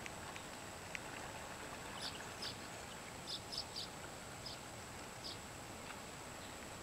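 A scatter of short, high bird chirps, most of them near the middle, over a steady outdoor background hiss with a thin, constant high-pitched tone.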